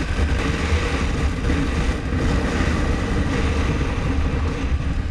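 Motorcycle running steadily on the road, with a heavy low rumble of wind noise on the camera microphone.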